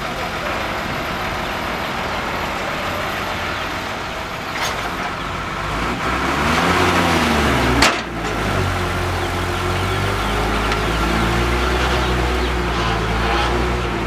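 Six-wheel dump truck's diesel engine running. About halfway through, its revs rise and fall, followed by a sharp click. It then settles into a steady, slightly louder run.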